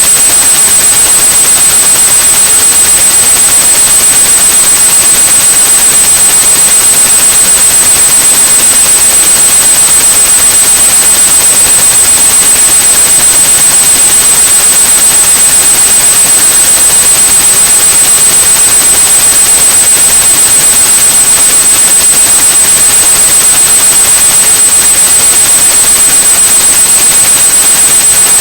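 A steady high-pitched 8100 Hz tone held over continuous white noise, a tinnitus-masking sound. It is loud and unchanging throughout.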